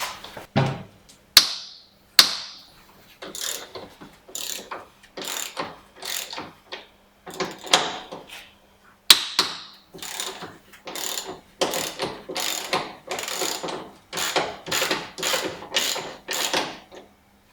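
Ratchet wrench clicking in repeated short strokes, about two a second, as the bolts of a BMW X5 E53 front anti-roll-bar bushing clamp are undone.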